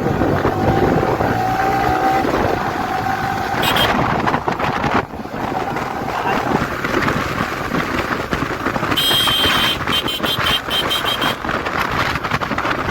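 Road traffic noise from vehicle engines running. A high-pitched horn honks about nine seconds in and toots on for a couple of seconds.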